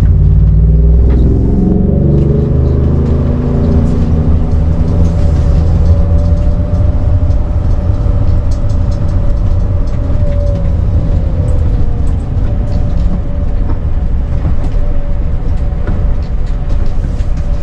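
RV engine and road rumble while driving, the engine pitch climbing over the first few seconds as it accelerates, then holding steady.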